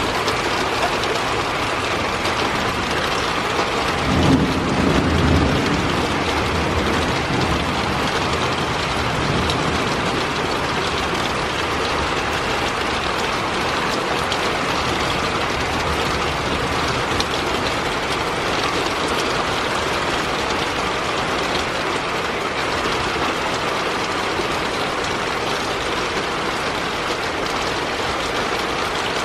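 Heavy rain pouring down steadily in a thunderstorm, with a low rumble of thunder swelling about four seconds in and fading over a couple of seconds.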